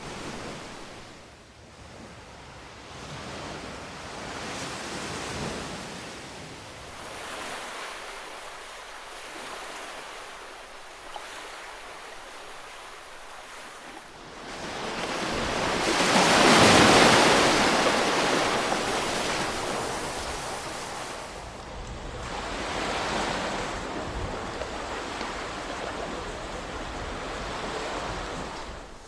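Ocean waves surging and washing in, rising and falling every few seconds, with one much bigger wave swelling and breaking about halfway through.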